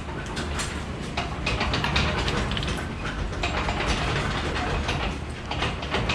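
Irregular metal clanks and knocks over a steady low rumble as a transmission is worked against the back of a race car's engine, its dowel pins catching on the engine plate.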